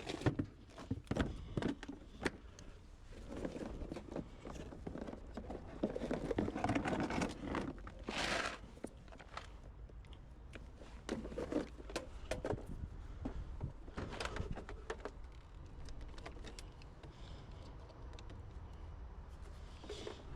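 Irregular handling noises: scattered clicks and knocks with stretches of rustling, the busiest a third of the way in and again a little past halfway.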